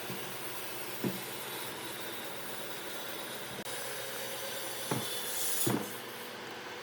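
A woodworking machine running steadily in a workshop, with a few short knocks about a second in and twice near the end.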